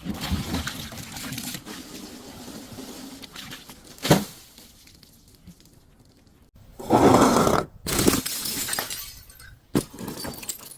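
Glass being broken and crushed: stretches of crunching and grinding, with a sharp crack about four seconds in and louder crunches in the second half.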